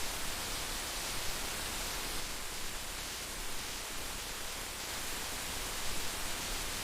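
Heavy rain falling steadily: a dense, even hiss of countless drops with no let-up.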